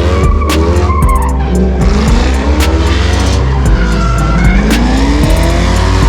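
Cars doing burnouts and donuts: engines revving up and down with tires squealing, over loud music with heavy bass.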